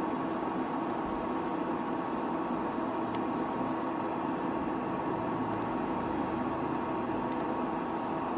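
Steady mechanical hum with a low drone and a higher whine that do not change, and a few faint clicks.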